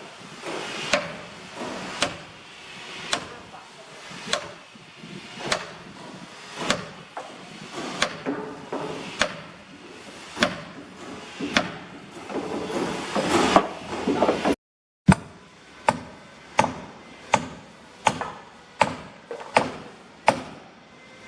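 Evenly spaced blows of a hand tool on boat timber, about one a second. After a short break they come faster, a little under a second apart.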